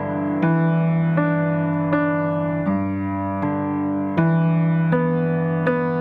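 Background music: a gentle piano or electric piano playing sustained chords, with new notes struck about every three-quarters of a second.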